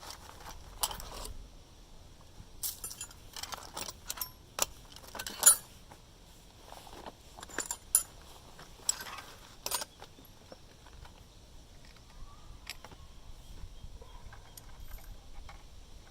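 Metal tools and parts clinking and rattling as they are handled, in irregular sharp clanks that are busiest over the first ten seconds and thin out after.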